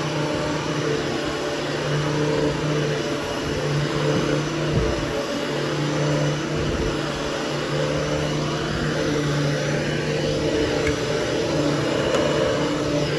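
13-inch Hoover Hushtone upright vacuum running steadily over carpet for post-grooming, a constant motor hum with a hiss of airflow.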